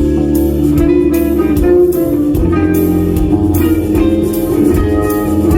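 Band playing an instrumental passage with guitar, bass and drum kit, no vocals; steady pitched guitar and bass lines under regular drum hits.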